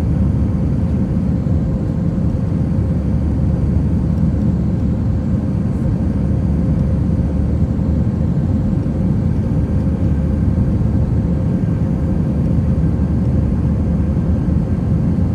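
Steady engine and airflow noise inside the cabin of an Airbus A319 during its departure, heard through the window seat. The noise is loud and even, with a faint steady hum under it, and holds unchanged throughout.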